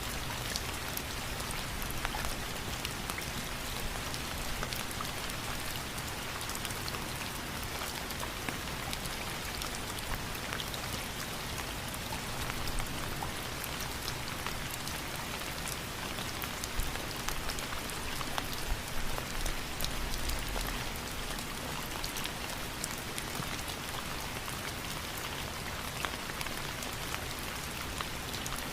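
Steady rain falling on a surface, a continuous even hiss dotted with many small drop ticks.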